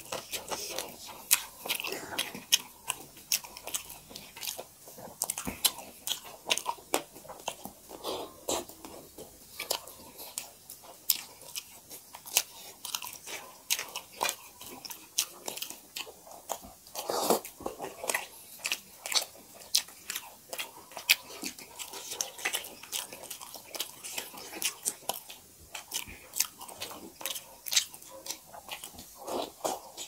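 People chewing and biting mouthfuls of maize dhido and chicken curry close to the microphone: a dense run of wet chewing mouth sounds with many small sharp clicks.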